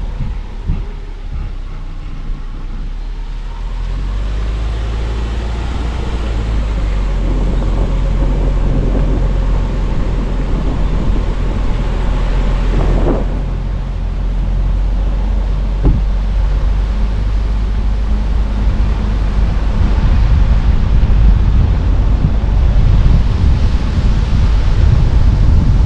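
Car driving along a road: steady low rumble of engine and tyres, with a brief whoosh about halfway through, the noise growing louder toward the end.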